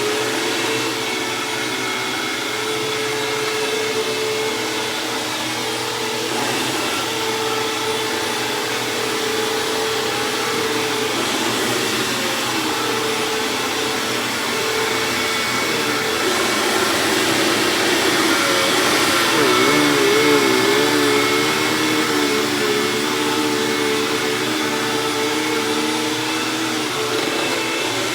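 Hoover WindTunnel Plus upright vacuum cleaner running loudly and steadily while it vacuums shredded paper off carpet. Its motor pitch wavers for a couple of seconds about twenty seconds in.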